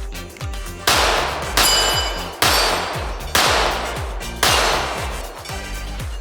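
Five shots from a ported Glock 17-pattern 9mm pistol, spaced a little under a second apart, over background music with a steady beat.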